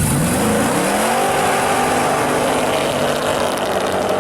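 1976 Plymouth Fury's 511 cubic-inch Mopar big-block stroker V8 with tunnel ram intake revving: the revs climb over the first second, then hold high and steady.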